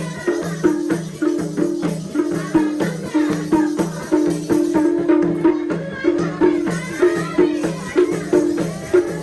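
Nepali dohori folk music played without singing: a fast, even hand-drum rhythm alternating between a low and a higher stroke, typical of the madal, with a shaker or rattle over it.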